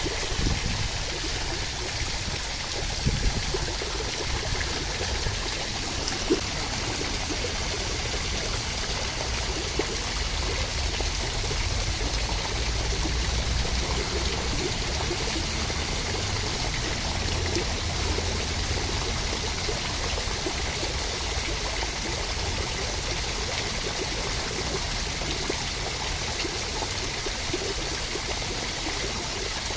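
Steady, continuous rushing water for relaxation, an even wash of noise that does not change, with a few brief louder spikes in the first several seconds.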